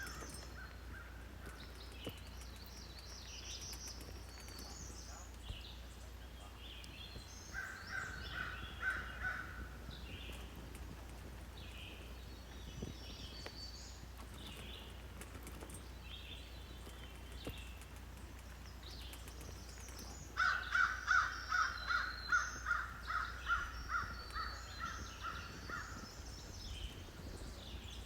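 Outdoor birds calling: small birds chirping scattered throughout, and a louder bird giving a fast series of harsh repeated calls, a short run about eight seconds in and a longer run of about a dozen calls near the end.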